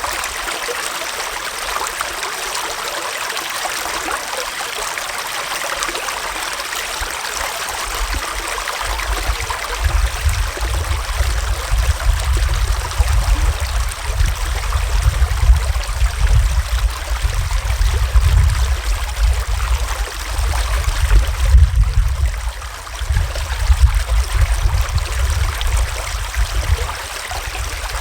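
Gentle forest stream flowing, a steady rush of water. About eight seconds in a low, gusting rumble joins it and stays loud until it fades out near the end.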